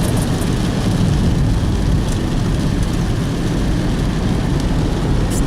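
Steady low rumble of a vehicle driving, engine and tyre noise heard from inside the vehicle.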